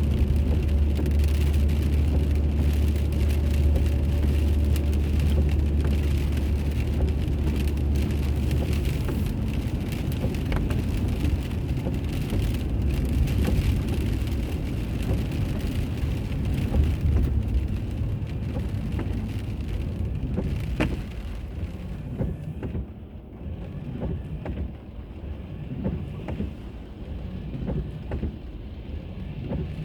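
Car road noise recorded by a dash camera: a steady low hum with tyre and wind noise. The hum eases after about eight seconds, and the whole sound drops quieter about two-thirds of the way through.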